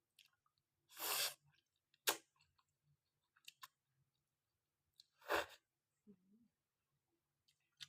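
Close-up eating sounds of a person eating khanom jeen rice noodles with kaeng tai pla curry: two short breathy slurps, about a second in and about five seconds in, with a few sharp utensil or mouth clicks between them. A brief low hum comes just after the second slurp.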